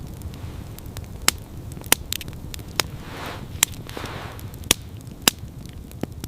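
Wood fire crackling: sharp pops about once a second over a steady low rumble.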